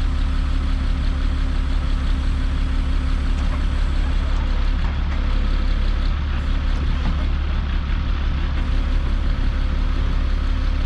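Log truck's diesel engine running steadily, powering the truck-mounted log loader while walnut logs are loaded.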